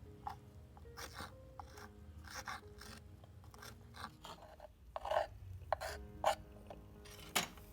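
Miniature kitchen tools scraping and rasping on a cutting board in short, irregular strokes, with several louder, sharper taps from about five seconds in.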